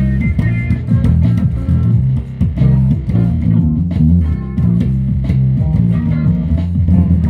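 Guitar music with a prominent bass guitar line: a steady run of plucked notes.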